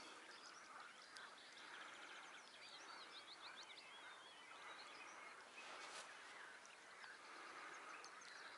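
Near silence: faint birdsong with quick chirping notes over a low outdoor hiss, and one soft click about six seconds in.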